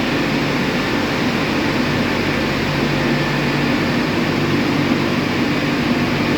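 Drying blowers of an Istobal M12+ rollover car wash running steadily, a loud even rush of air with a low hum.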